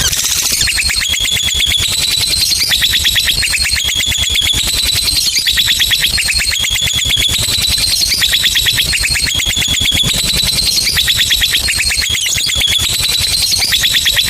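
Lovebird's long 'ngekek' trill: a loud, unbroken, very fast chatter of shrill high chirps, used as a lure song to get other lovebirds singing.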